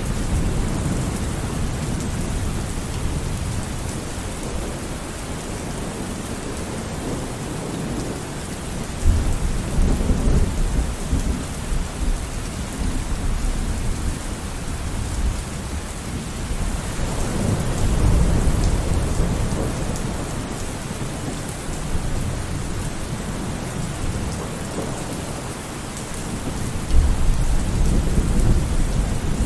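Steady heavy rain falling, with rolls of low thunder rumbling in about a third of the way in, again around the middle and once more near the end.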